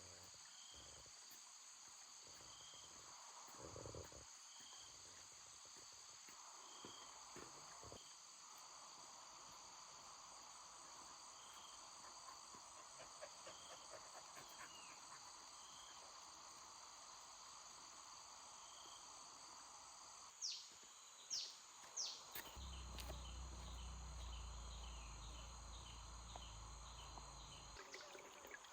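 Insects, such as crickets, chirping steadily in a faint outdoor chorus, with a soft chirp repeating about once a second. About twenty seconds in come three sharp falling calls, then a low rumble for about five seconds.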